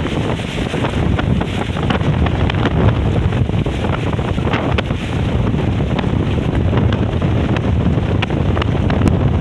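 Strong beach wind buffeting the microphone: a loud, steady low rumble, with frequent short sharp ticks throughout.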